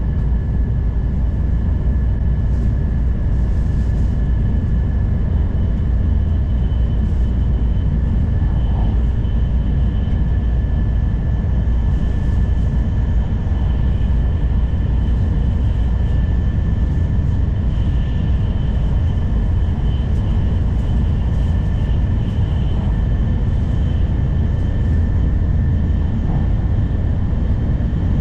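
N700 series Shinkansen running at speed, heard from inside the carriage: a steady low rumble with two faint, steady high-pitched tones over it.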